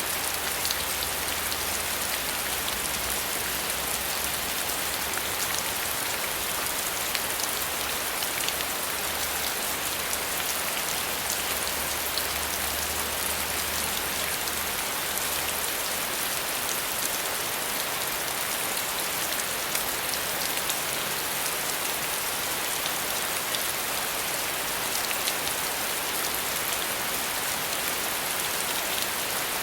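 Steady rain, an even dense hiss of many drops with fine ticks of single drops, unchanging throughout.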